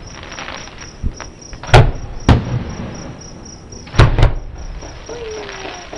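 Fireworks shells bursting about a mile away: five sharp booms, two close together about a second apart and then a pair near two-thirds of the way in, each trailing off in a rumbling echo. Crickets chirp steadily throughout.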